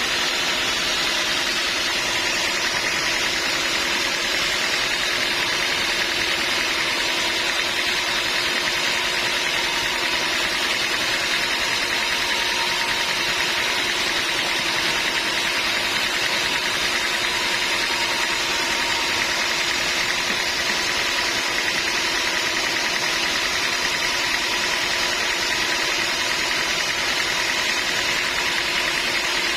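Sawmill machinery running steadily: an even, unchanging mechanical noise with a few constant tones in it.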